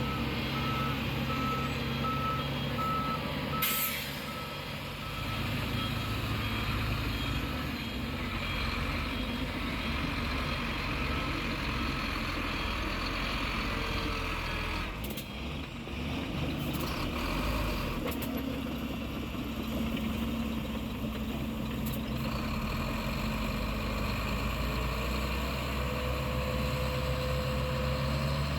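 Heavy construction vehicle's diesel engine running steadily, with a backup alarm beeping evenly for the first few seconds. A short sharp hiss comes about four seconds in.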